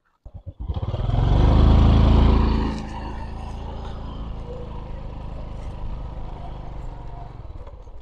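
A small motorcycle engine starts up under a few clicks and revs loudly for about two seconds. It then settles into steady running as the bike rides along a rough dirt track.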